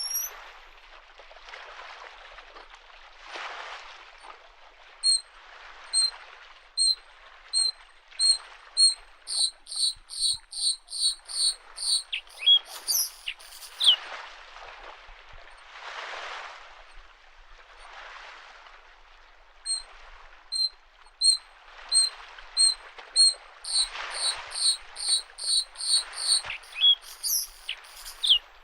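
Bluethroat singing: two runs of clear, repeated high notes that start spaced out and speed up into a rapid string, each ending in a short sliding call. Under the song, small lake waves wash softly against the shore every couple of seconds.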